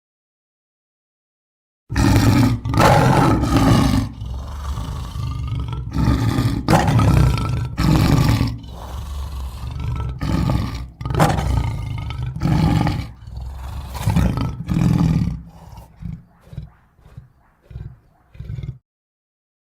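Big cat roaring, a sound effect: a long series of deep, loud roars starting about two seconds in, trailing off into shorter, quieter grunts near the end and then cutting off.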